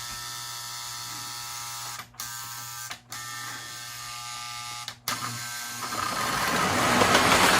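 Lionel O gauge model train running: a steady electric motor hum that cuts out briefly three times, then a rising rush of noise near the end as the train gets moving.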